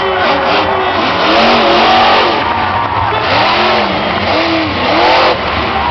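Monster truck engine revving repeatedly, its pitch climbing and falling about once a second over a loud, dense din.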